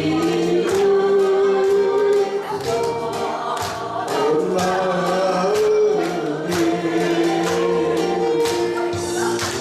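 Several voices singing a song together, with held notes, accompanied by regular percussion strikes.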